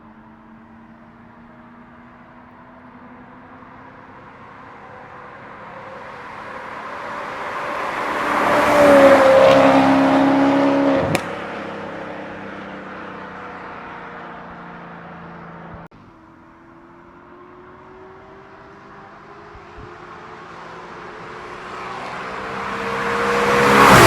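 Maserati GranTurismo 4.2-litre V8 with a custom X-pipe and straight-pipe exhaust, accelerating past twice. Each time the engine note climbs and grows loud, then drops in pitch as the car goes by: once about nine seconds in, and again at the end.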